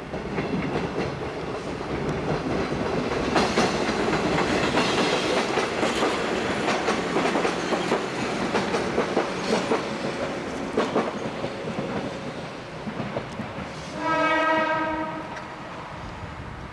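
A train passing at speed, its wheels clattering over the rail joints, then one short horn blast near the end as it goes.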